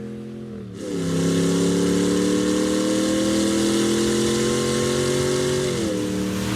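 Dodge Ram 1500's Borla Touring exhaust: the engine's revs fall off, then about a second in it gets louder and holds a steady, slowly climbing rev for about five seconds. Near the end the revs drop back.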